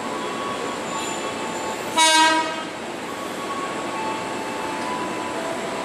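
A train running slowly into the station, a steady rolling rumble with a faint tonal whine, and a single short horn toot about two seconds in.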